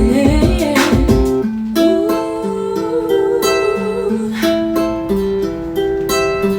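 A song played back over audio speakers for a listening test: plucked guitar over held keyboard notes, with drum hits near the start and again near the end.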